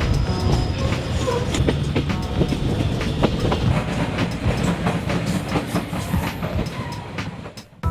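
Train running on the rails: a steady rumble with irregular clicks and knocks of the wheels and carriage, fading away near the end.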